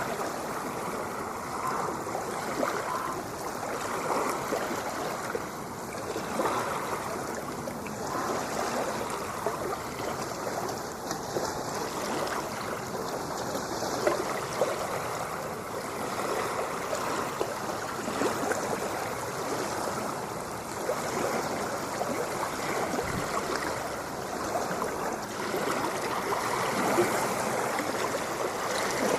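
Continuous rushing and splashing of moving water, steady in level with many small splashes and no distinct waves breaking.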